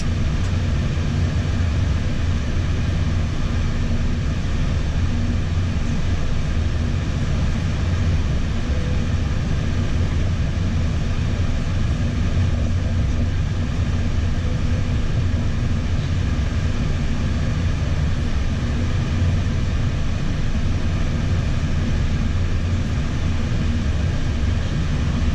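Steady cockpit noise inside an Airbus A320 flight deck: a constant hum and rush of air and engines, strongest at the low end, with a few faint steady tones and no marked changes.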